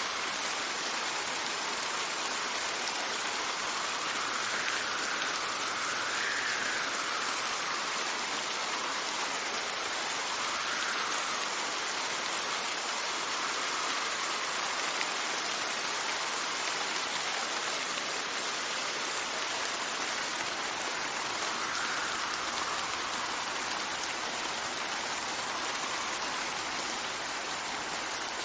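Steady rain with wind, an even hiss of falling rain over which gusts swell and ease several times.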